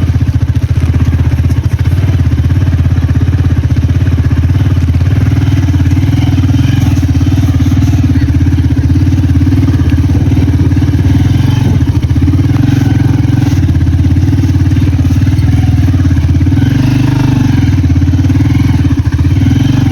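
Motorbike engine running steadily under the rider, heard from on the moving bike.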